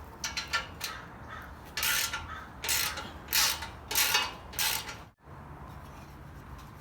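Hand ratchet with a 13 mm socket clicking through about six short rasping strokes, loosening the bolt on an exhaust tip clamp. The ratcheting stops abruptly about five seconds in.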